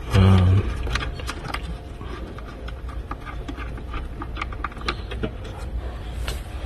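Scattered light clicks and taps of hand tools and parts being handled, irregular throughout, over a steady low background rumble. A short, loud low-pitched sound comes in the first half second.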